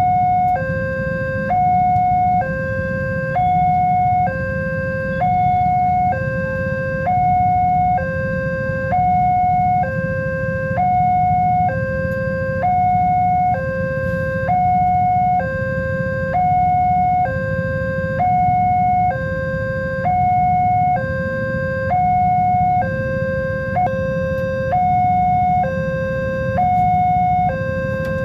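Level-crossing warning alarm sounding, an electronic two-tone signal alternating evenly between a higher and a lower tone, about one high-low cycle every second and a half, over a steady low rumble.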